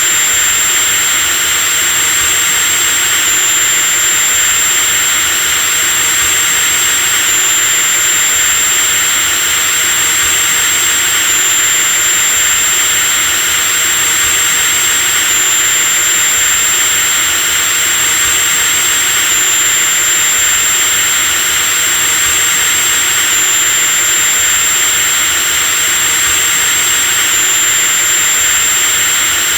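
Electric drilling machine running continuously at steady speed: a loud, even motor noise with a thin high whine that shifts slightly about every four seconds.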